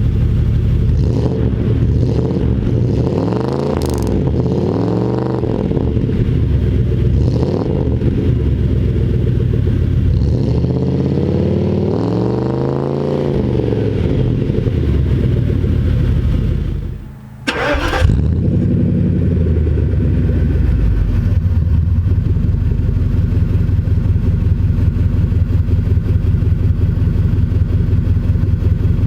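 Mercedes W126 V8 running through a Magnaflow muffler with high-flow cat and resonator delete: a deep exhaust grumble, revved in several throttle blips that rise and fall. About 17 seconds in the sound drops out briefly, then a sharp burst as the engine restarts warm and settles into a steady idle.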